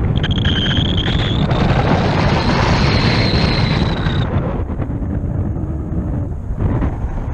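Heavy wind buffeting on the microphone, a loud steady rumble, with a high thin whistle of rushing air that rises slightly in pitch and cuts off about four seconds in.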